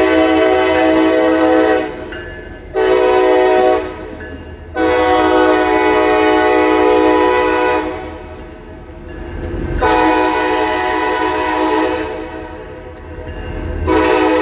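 Diesel locomotive's air horn sounding a run of blasts as the train runs along the street: a long blast, a short one, a longer one, another long one, and a fifth starting near the end.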